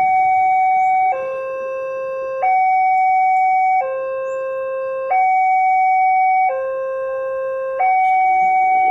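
Railway level-crossing warning alarm sounding a steady two-tone signal, a higher and a lower tone alternating about every 1.3 seconds, the higher tone louder: the warning that a train is approaching and the barriers are closing.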